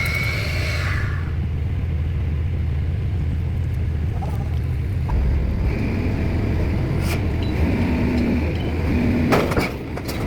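Steady low rumble of the pile-driving rig's diesel engine, with a single knock about seven seconds in. A quick run of sharp impact knocks starts near the end.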